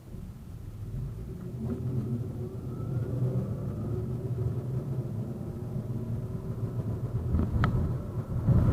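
71-931M Vityaz-M tram pulling away and accelerating: the wheels rumble on the rails, louder as it gathers speed, under a faint rising whine from the traction drive. Near the end come a couple of sharp clicks, as of wheels crossing rail joints.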